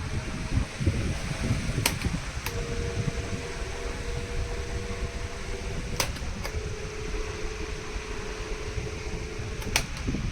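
Electric table fan running with a steady whir and a thin motor hum. A handful of sharp clicks are spread through, and the hum's pitch shifts after some of them.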